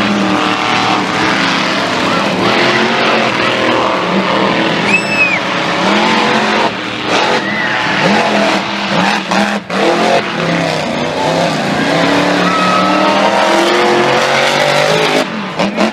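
Monster truck engine running loud and revving, its pitch rising and falling repeatedly, with a short high whistle about five seconds in.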